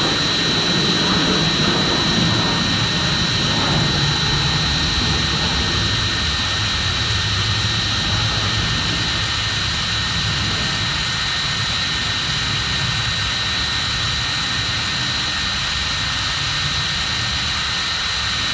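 Electric drill fitted with a wire brush, running steadily with a constant high whine while it scrubs carbon off a weed eater's spark plug. It cuts off suddenly at the end.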